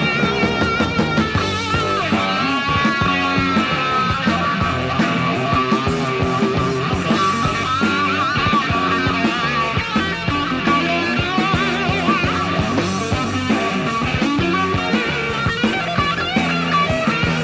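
Hard rock band playing an instrumental passage, an electric lead guitar soloing with sustained, wavering notes over the band.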